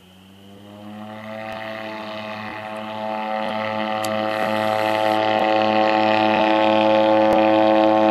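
Floatplane's propeller engine running, a steady low drone with a stack of even tones, getting steadily louder as it powers up for takeoff; its pitch rises slightly in the first second.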